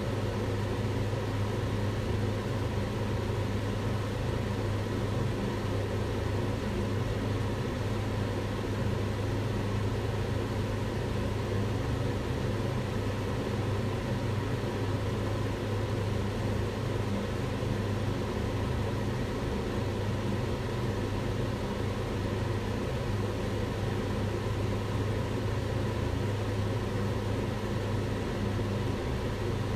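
Kitchen range hood extractor fan running steadily: an even rush of air over a constant low motor hum.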